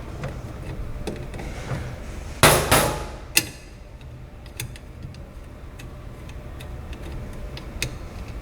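Sharp metallic clicks and clinks of hand tools and small metal parts being worked as the fusible link is taken off its bracket. The loudest cluster of clinks comes a little over two seconds in, then scattered lighter ticks follow.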